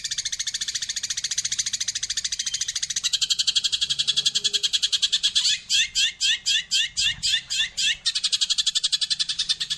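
Eurasian tree sparrow (burung gereja) singing its rapid-fire 'tembakan' roll: a fast, even trill of high chirps, about ten a second, which breaks a little past halfway into slower separate chirps about three a second, then returns to the fast trill.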